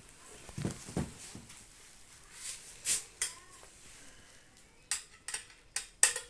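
Light metallic clicks and clinks of microwave oven parts and hand tools being handled, with a few dull knocks about a second in and a quick run of sharp clicks near the end.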